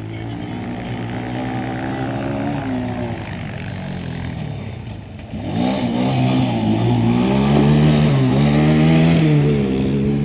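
Motocross motorcycle engines revving, their pitch climbing and dropping again and again through throttle and gear changes. A nearer bike comes in louder about five and a half seconds in.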